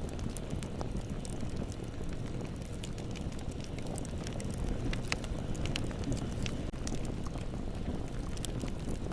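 Bonfire burning: a steady low rumble of flames with scattered sharp crackles and pops, thickest around the middle.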